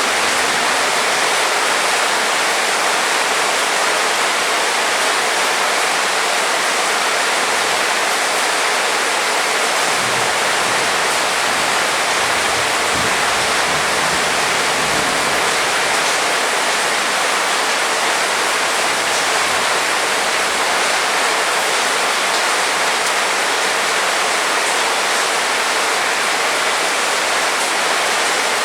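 Heavy rain falling as a steady, dense hiss. A faint low rumble rises underneath from about ten seconds in and fades a few seconds later.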